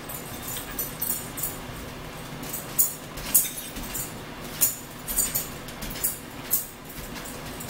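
Close-up eating sounds of a person biting into and chewing a sandwich: a string of short, sharp, irregular chewing and lip-smacking clicks, most of them from about two and a half seconds in.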